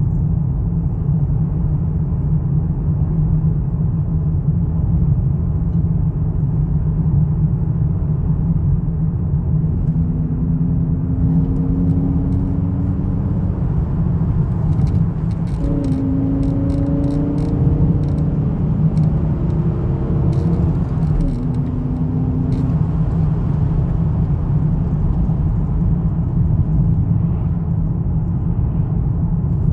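Volvo V70 2.4 naturally aspirated inline-five engine running with a steady low rumble. Around the middle, a few short higher tones and faint ticks come and go over it.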